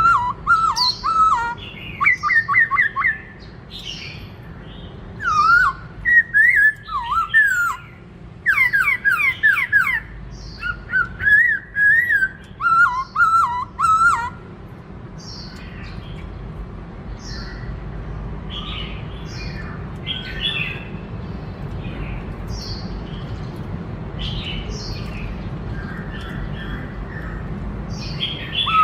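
Black-throated laughingthrush singing: loud, rapid whistled phrases for about the first fourteen seconds, then quieter, sparser calls.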